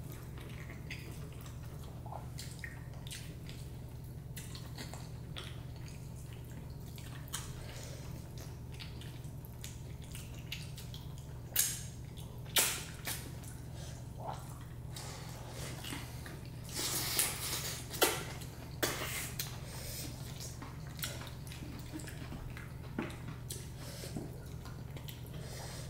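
Close-up eating sounds: wet chewing and mouth noises with scattered short clicks, over a steady low hum.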